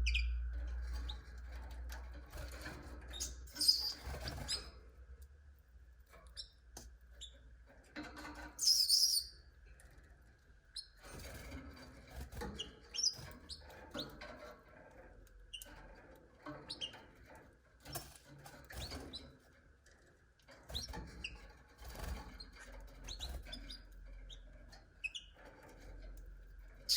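Canaries giving short scattered chirps and calls, with bouts of wing fluttering and rustling around a cage, over a faint steady hum.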